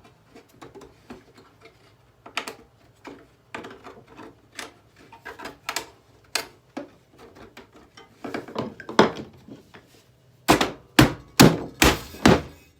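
A boombox's plastic casing being knocked, pried and broken apart: scattered sharp clicks and cracks, then a rapid run of loud heavy blows in the last two seconds.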